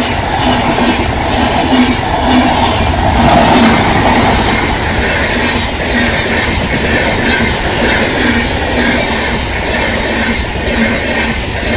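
LHB passenger coaches of an Indian Railways express passing close at speed on a curve: a loud, steady rumble of steel wheels on rail, with a regular clatter recurring as the bogies run over the track.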